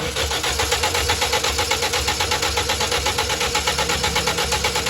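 Toyota Corolla GLi engine idling just after starting, with an even rhythmic ticking, several beats a second; the mechanic is working on its tappet noise.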